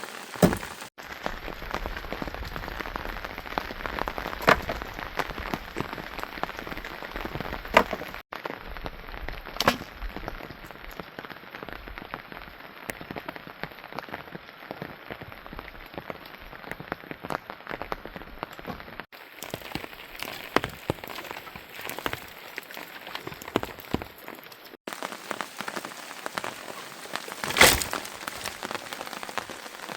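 Rain falling steadily, with louder single drips striking close by now and then. The sound breaks off abruptly for an instant four times.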